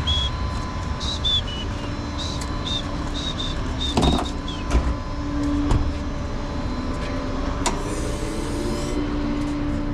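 Tow truck running and driving, heard from inside the cab: a steady low rumble and hum, with a few sharp knocks and a string of short, high chirps in the first few seconds.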